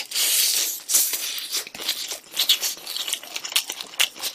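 Crunching and chewing of crispy fried chicken close to the microphone: a long crunchy bite at the start, then irregular crisp crackles as it is chewed.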